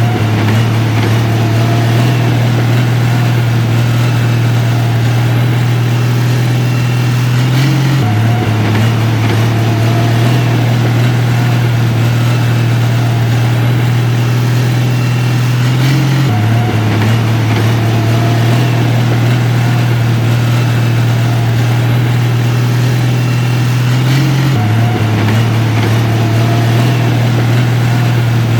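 Heavy machine engine running at a steady low drone. The pitch shifts abruptly about every eight seconds, and the same pattern repeats each time, like a looped recording.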